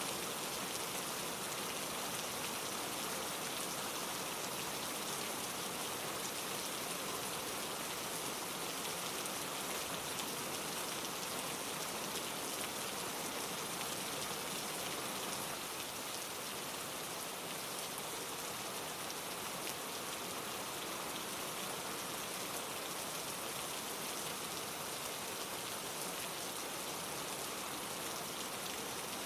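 Steady rain falling: a dense, even hiss of many small drops that holds without change.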